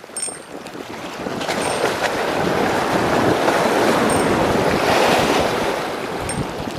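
A sea wave surging in and washing back, building over a couple of seconds and then easing off, with strong wind on the microphone.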